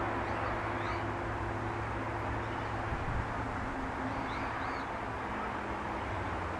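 Steady outdoor background noise with a low, even hum, and a few faint, short bird chirps about half a second in and again around four seconds in.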